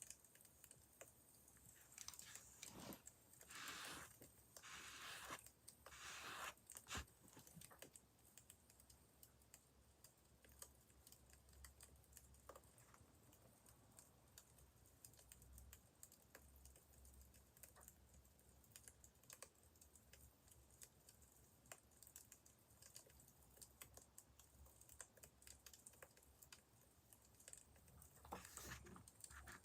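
Faint crackling of a burning wood fire: sparse, irregular small pops and snaps. A few soft swells of noise come in the first several seconds and again near the end.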